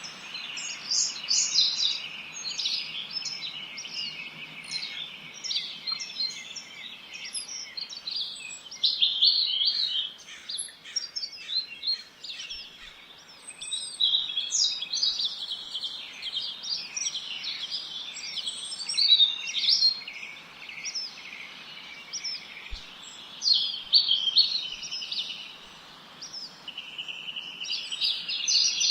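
Many small birds chirping and trilling at once, a dense chorus of short high calls that overlap throughout, over a faint steady background hiss.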